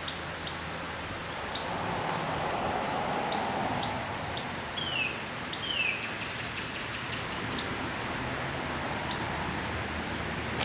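Outdoor ambience: a steady rushing background with a bird giving two downward-sliding calls about halfway through, and faint short chirps scattered throughout.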